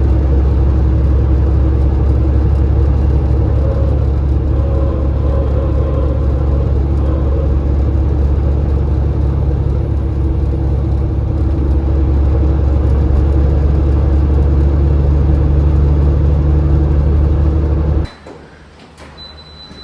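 Steady, loud running noise of a semi-truck's diesel engine and road rumble, heard from inside the cab while driving; it cuts off abruptly near the end.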